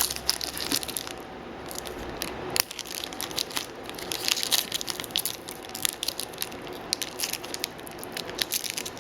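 Wrapper of a 2012-13 Upper Deck SP Authentic hockey card pack being torn open and crumpled by hand, an irregular crackling and crinkling with sharp clicks throughout.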